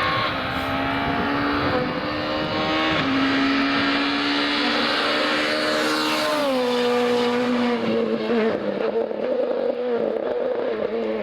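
Rally car engine running hard and loud, its note climbing, then stepping up about three seconds in and dropping about six and a half seconds in, then wavering.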